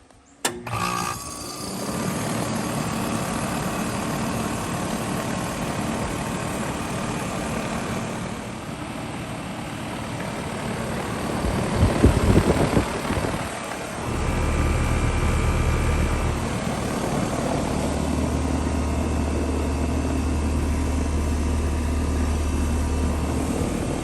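A Rheem Classic 2-ton central air conditioner's outdoor unit starts up suddenly about half a second in, then runs steadily: compressor hum under the rush of the condenser fan. There is a louder rumbling stretch about halfway through, and a deeper low rumble after that.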